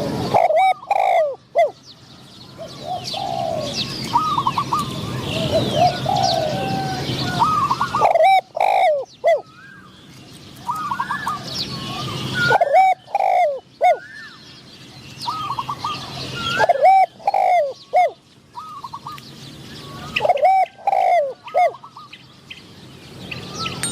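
Spotted doves cooing: five short phrases of a few bending coo notes, about one every four seconds, with thin chirps of small birds in the background.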